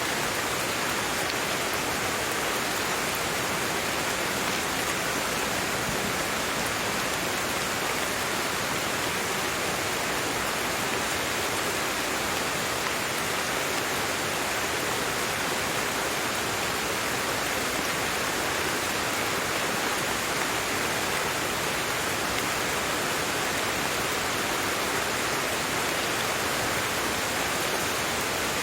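Steady rain falling, an even hiss of many drops with no distinct single drops or changes.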